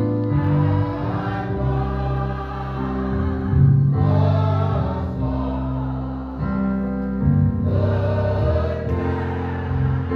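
Congregational gospel singing: a choir of voices singing a hymn over guitar and keyboard accompaniment.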